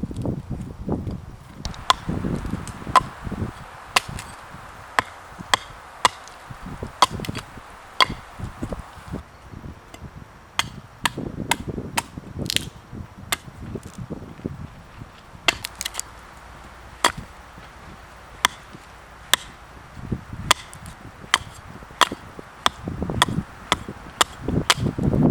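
A blade chopping into wood with repeated sharp strikes, roughly one or two a second, with a few short pauses.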